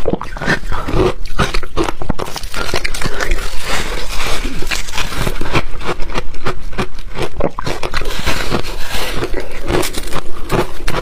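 A person biting and chewing ice close to the microphone: loud, irregular crunching and cracking that goes on without a break.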